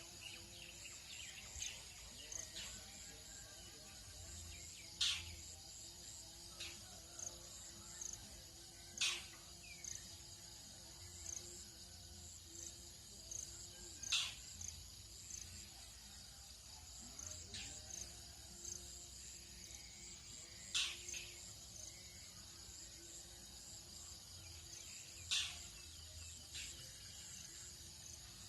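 Dawn ambience in a tropical countryside: a steady high insect drone with scattered small chirps, broken by a loud, sharp call repeated five times, about four to six seconds apart. A faint low hum runs underneath.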